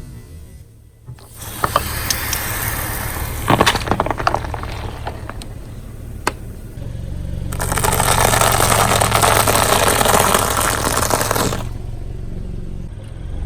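Car tyre rolling over and crushing objects, with scattered sharp cracks, then a loud stretch of dense crackling and crunching for about four seconds in the second half, over the low steady running of the car's engine.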